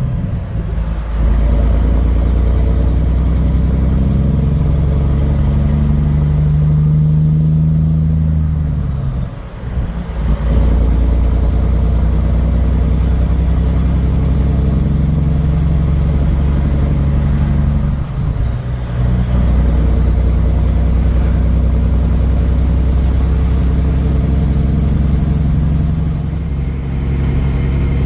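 Semi truck's diesel engine pulling under way, with a high whistle that rises and then falls during each stretch of pulling. The engine note dips briefly about ten and about eighteen seconds in, as it does at gear shifts.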